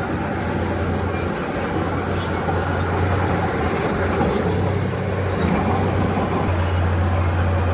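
Komatsu D31P crawler bulldozer's diesel engine running steadily under a constant low hum, with the clatter of its tracks and scattered short high squeaks.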